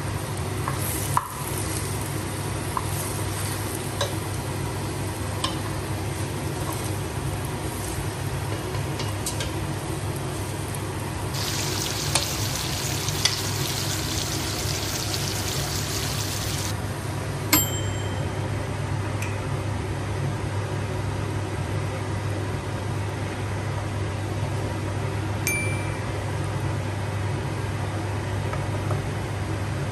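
Chicken pieces frying in oil in a stainless steel pot, with a steady sizzle over a low hum and a few light knocks of a wooden spatula turning them. The sizzle grows louder for about five seconds in the middle.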